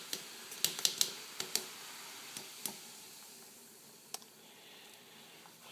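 Light clicks and knocks from the microwave exhaust filter being handled in the pot of hot baking-soda water: about a dozen quick ones in the first three seconds and one more a little after four seconds, over a faint steady hiss of the hot water.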